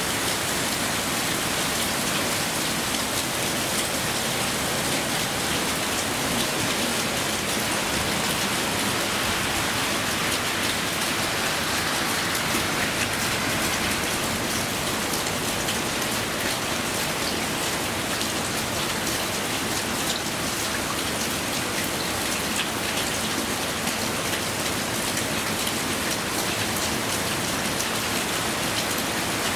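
Heavy rain pouring down steadily, a dense hiss of drops hitting the ground and surfaces.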